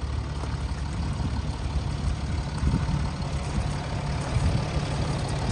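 Land Rover Discovery 4's 3.0-litre V6 turbo diesel idling steadily.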